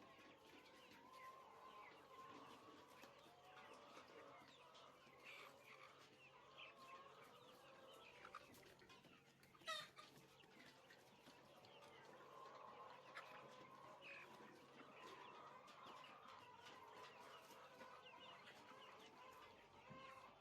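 Faint, continuous clucking and cheeping of a flock of chickens in a poultry house, with one louder, sharp call about halfway through.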